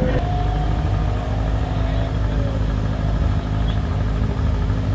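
Race car engine idling steadily at the start line of a hillclimb, with a fainter, higher engine note falling away over the first couple of seconds.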